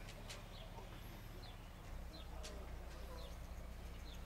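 Faint outdoor ambience: small birds chirping in short high notes about every half second over a steady low rumble, with a couple of sharp ticks.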